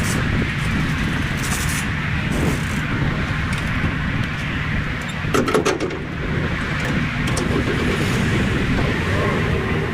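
Semi-truck engine and road noise, a steady low running hum, with a brief clatter about five and a half seconds in.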